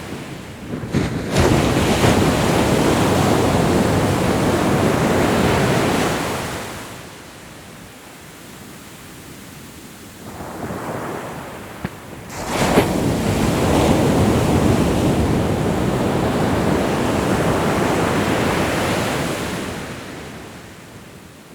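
Ocean surf: two big waves break and wash in, each swelling and then fading over several seconds. A smaller wash comes between them, with quieter lulls in between.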